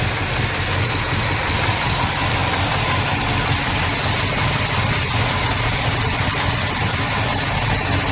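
The factory 340 cubic-inch V8 of a 1971 Plymouth Road Runner, all stock, idling smoothly and steadily.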